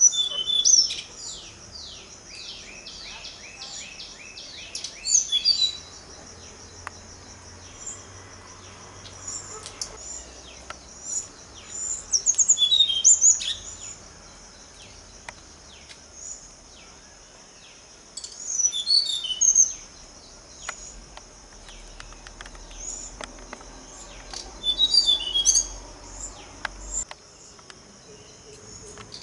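Small birds chirping and calling in short bursts every few seconds, one a quick run of about ten falling notes near the start, over a steady high-pitched insect drone.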